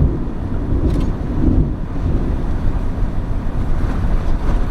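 Storm wind buffeting the microphone: a steady, loud noise with most of its weight low down, with a faint sharp click about a second in.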